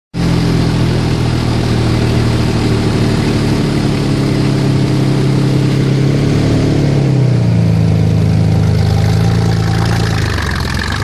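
Toyota FJ Cruiser rally car's engine running at a steady idle, close by and loud; its pitch dips slightly about seven seconds in.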